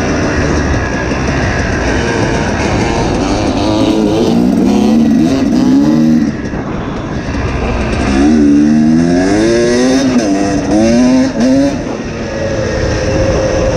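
Two-stroke dirt bike engine at full throttle, its pitch climbing and dropping again and again as it runs up through the gears, over a steady rushing noise.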